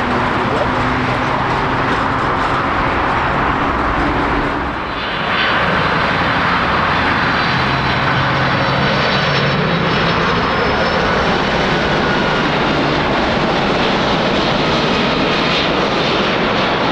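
Airliner engines running loud and steady, with a short dip in level about five seconds in before the engine noise carries on.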